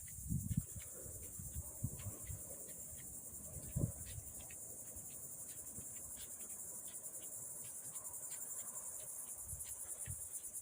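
Steady, high-pitched chorus of insects, a fine rapid pulsing like crickets, with scattered soft clicks and a few low thumps.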